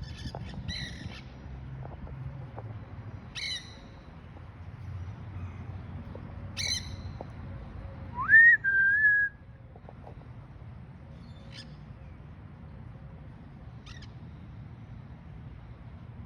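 Quaker parrots (monk parakeets) giving short squawks a few seconds apart. About eight seconds in comes a loud whistle that rises and then holds in two parts, the loudest sound here. A few fainter chirps follow over a steady low rumble.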